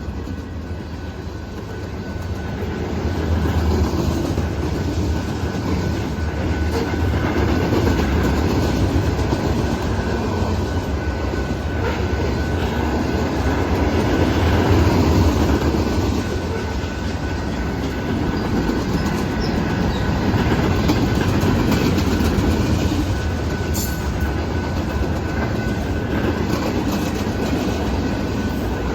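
Freight cars of a Canadian Pacific manifest train rolling past, a steady rumble with clickety-clack of wheels over the rail joints, growing louder about three seconds in. A faint thin steady squeal from the wheels runs underneath.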